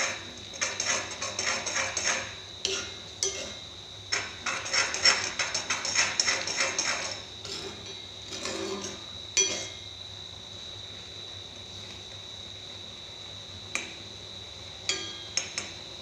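A utensil stirring and scraping noodles around a kadai (wok) on the stove, a quick run of clinks and scrapes that eases off after about seven seconds to a few scattered taps.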